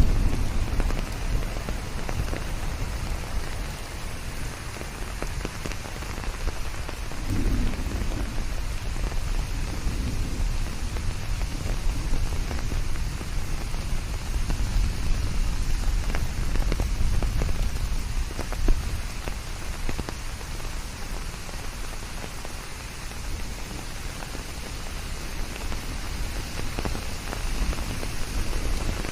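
Steady rain pattering on leaves and surfaces, with low rumbles of distant thunder swelling just after the start and again around eight seconds in.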